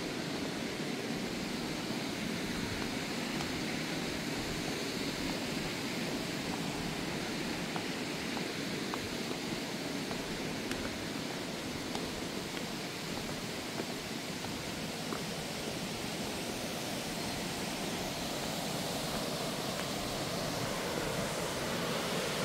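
Cheonjeyeon's third waterfall: a steady, unbroken rush of falling water, a heavy flow pouring down.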